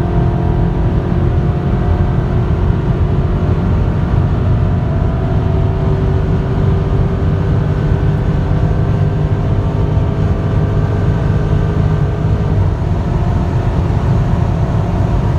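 2017 Dodge Charger Scat Pack's 392 HEMI V8 with Corsa Xtreme exhaust, pulling hard at very high speed in top gear. The engine note climbs slowly over heavy wind and road noise, then falls away about twelve and a half seconds in.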